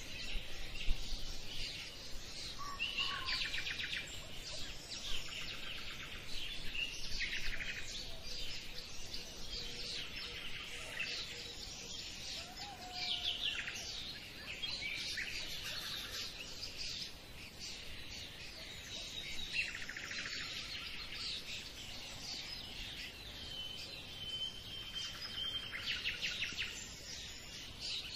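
Small birds chirping and trilling in repeated high-pitched bouts every few seconds, with a short steady whistle near the end.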